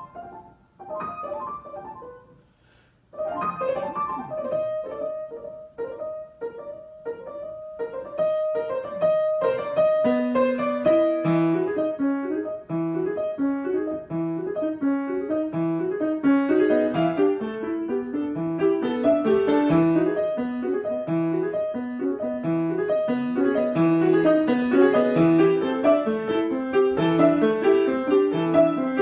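Solo piano improvising. After a brief pause about two seconds in, a single note repeats about twice a second. From about ten seconds in, a busier rocking pattern of chords over a recurring low bass note builds up and grows louder.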